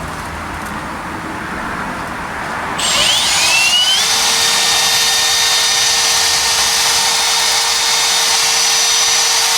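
Electric drill driving a hone in a truck's king pin bore to clean it up. It makes a rough scraping at first, then about three seconds in the drill speeds up with a rising whine and runs steady.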